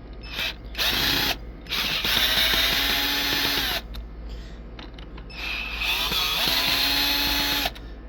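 Cordless drill-driver running in three bursts, one short and two of about two seconds each, its motor winding up and down each time as it backs out the screws on a sprinkler valve.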